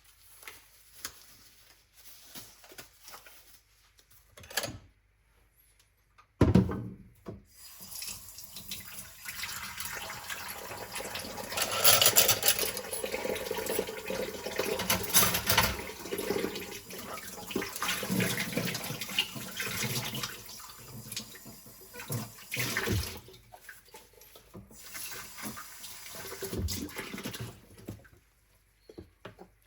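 A few light knocks, then a kitchen sink tap is opened about six seconds in and water runs and splashes into the sink during hand dishwashing, rising and falling as things are moved under the stream. It stops near the end.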